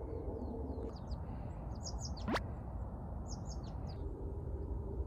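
Small birds chirping in two quick bursts of short high notes, about two seconds in and again a second and a half later, over a steady low outdoor rumble. Between the bursts comes one brief, sharp rising sweep.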